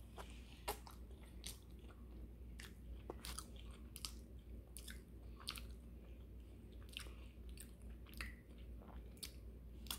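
Faint close-up chewing of a frosted cupcake topped with crumbled Oreo, with small wet clicks of the mouth coming irregularly, about one every half second to a second.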